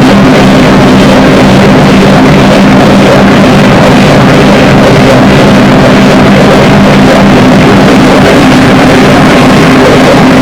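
Noise-music drone: a loud, unbroken wall of distorted noise over several steady low held tones.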